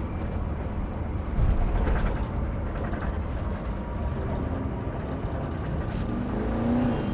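Vehicle on the move: a steady low engine and road rumble with a few scattered knocks and a faint wavering tone near the end.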